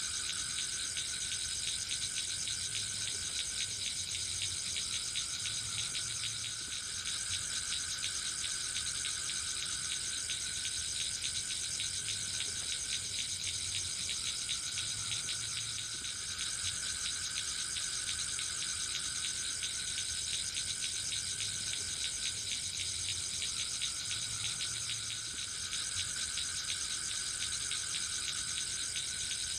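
Steady chorus of insects such as crickets, a fast fine trilling with a high continuous ring, and a lower trill that swells and fades every few seconds.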